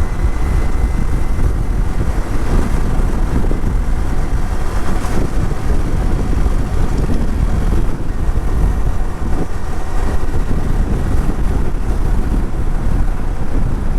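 Riding noise from a moving motorcycle: wind buffeting the microphone over the steady running of the bike's engine.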